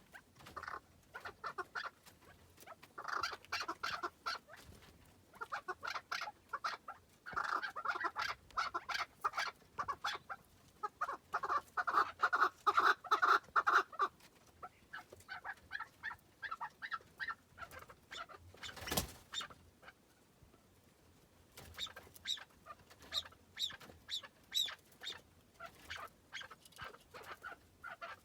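Chukar partridges calling: bursts of rapid, repeated clucking notes in series, loudest in the first half, then softer, higher call notes later on. A single sharp knock about two-thirds of the way through.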